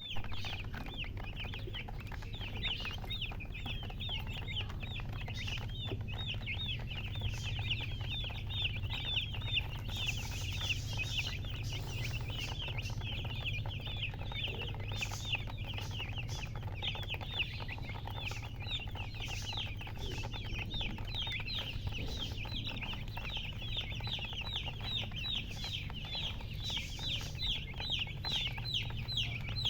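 Baby chicks peeping continuously: a dense stream of short, high, downward-sliding peeps, several a second and overlapping. A steady low hum runs underneath.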